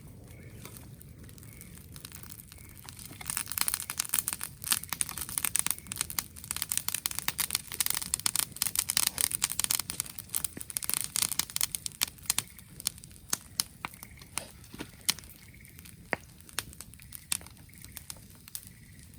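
Dense crackling and crinkling of dry material, thickest for about ten seconds from a few seconds in, then thinning to scattered pops.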